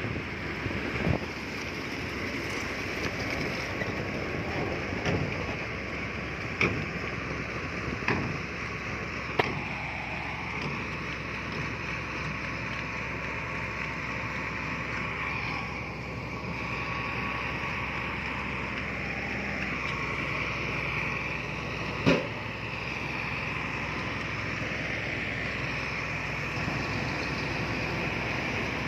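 Diesel engine of heavy earthmoving machinery running steadily, its note rising and falling a little, with sharp clanks now and then and one louder knock about three-quarters of the way through.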